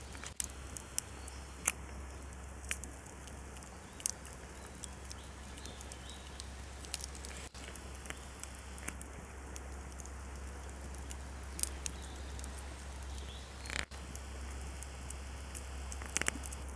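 Campfire of firewood crackling, with irregular sharp pops and snaps, as the logs burn down to coals. A steady low rumble runs underneath.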